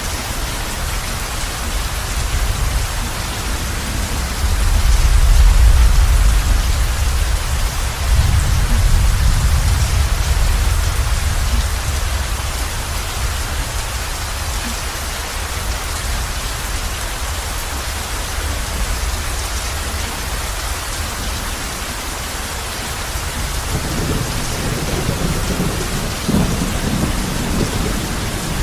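Heavy rain falling steadily on a roof, an even hiss, with low thunder rumbling in twice, about five and eight seconds in, and again more weakly near the end.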